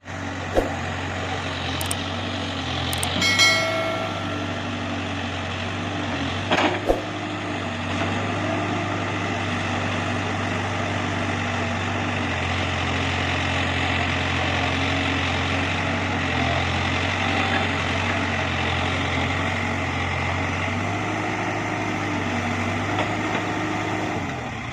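Heavy diesel engine of a tractor or backhoe loader running steadily, with a few sharp knocks and a brief high tone about three seconds in.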